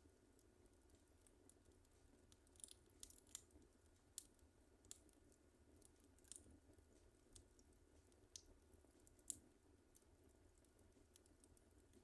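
Wood fire in a fireplace crackling quietly, with irregular sharp pops, the loudest about nine seconds in.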